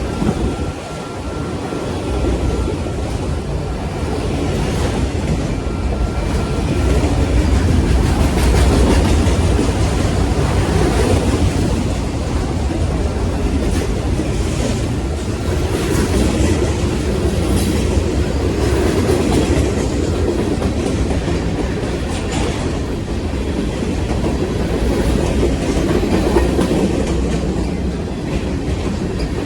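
Train rolling along the track: a steady deep rumble with the wheels clacking over rail joints now and then.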